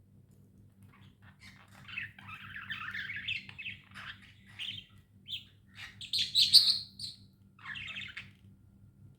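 Budgerigars chirping and chattering in a run of quick warbling calls, with a louder, shriller burst about two-thirds of the way in and a shorter one near the end.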